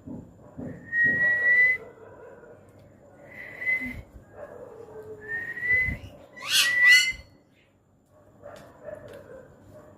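Pet parrot whistling: three drawn-out whistles, each rising slightly in pitch, then a pair of quick, sharply rising calls about seven seconds in, the loudest moment.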